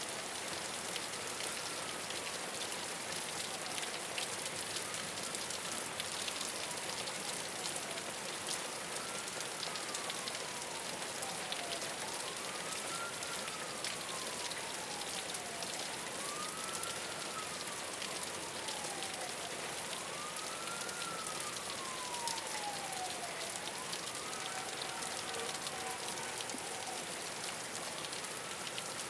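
Steady rain falling on a rooftop, with countless fine drop ticks. Through it a siren wails, each cycle rising quickly and falling slowly, about every four seconds.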